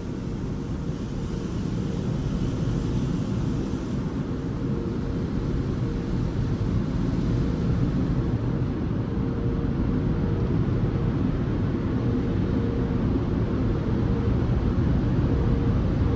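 Automatic tunnel car wash machinery heard from inside the car's cabin: a steady low rumble with a constant hum, growing gradually louder.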